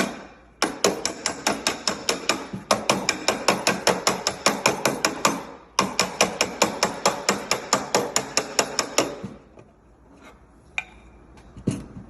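A flipper (body spoon) slapped against a dolly on the Audi Q5's dented quarter panel, in rapid, even taps about four to five a second. There are two long runs of taps, then only a few single taps near the end. This is the flip-and-dolly technique, used here to strengthen the weak panel.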